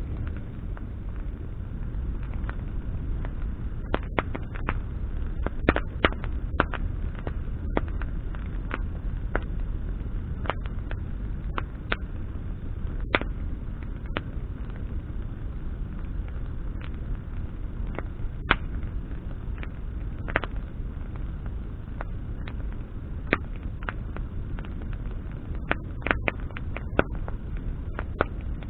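Wood campfire burning, with sharp irregular crackles and pops from the burning branches over a steady low rumble of flame.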